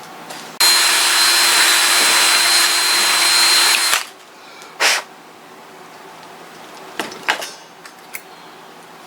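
Electric drill boring into a maple handle blank, running steadily with a high whine for about three seconds and then stopping abruptly, followed by one brief burst of the drill and a few light knocks near the end.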